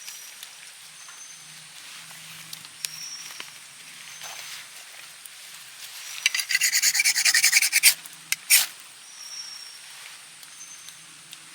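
A quick run of about ten scraping strokes lasting under two seconds, then one more scrape, over quiet forest background with faint high chirps.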